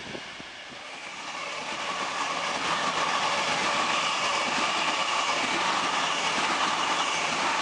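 Double-deck electric suburban train passing through the station at speed. Its running noise builds over the first couple of seconds and then holds steady.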